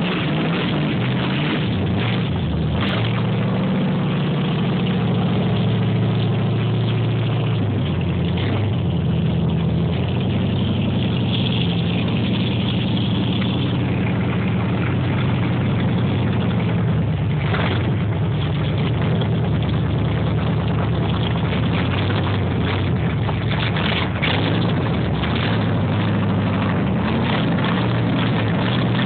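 Small-block Chevy V8 of a built drag Camaro running at low speed as the car is driven slowly; the engine note shifts about a third of the way in and again past halfway.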